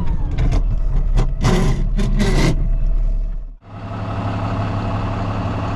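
KAMAZ truck engine running, heard from the cab, with several sharp clacks and rattles over the first couple of seconds. About three and a half seconds in it cuts out briefly, then comes back as a steady, even engine hum.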